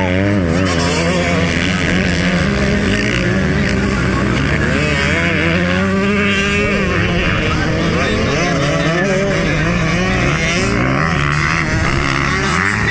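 Several motocross motorcycle engines running and revving together, their pitches wavering up and down and overlapping.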